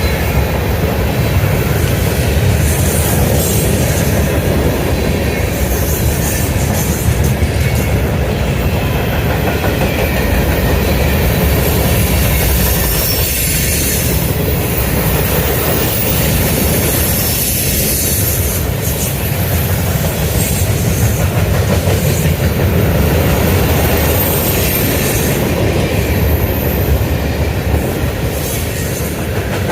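Freight train cars rolling steadily past, with continuous wheel-on-rail noise and clickety-clack from the wheels crossing rail joints.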